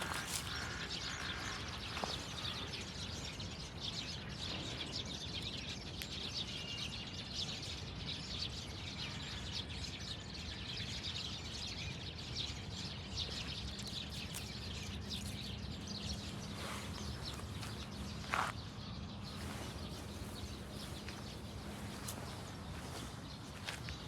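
Outdoor ambience: a steady background hiss with many short, high bird chirps, and one louder call about eighteen seconds in.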